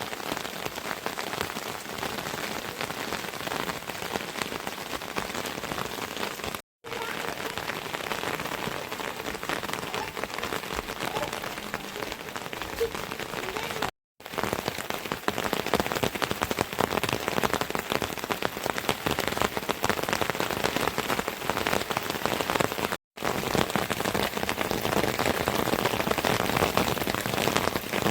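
Heavy rain falling, a dense patter of drops, growing louder about halfway through. The sound cuts out completely for a split second three times.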